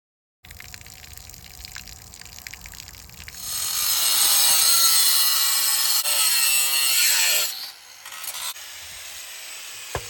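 A power tool cutting through the steel shell of a tank water heater: a loud, harsh hiss starts about three seconds in and stops about four seconds later. Quieter noise comes before and after it, with a sharp click near the end.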